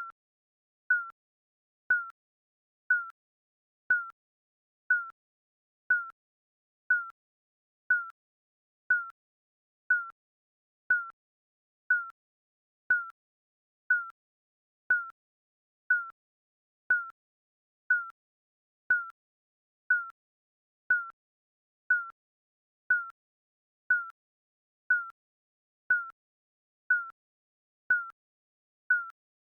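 Digital countdown timer beeping once a second: a short, slightly falling beep on each second, with silence between.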